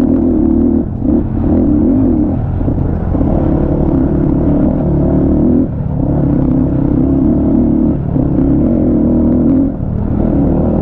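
250 cc motorcycle engine running loudly under load, with short dips in the sound every second or two.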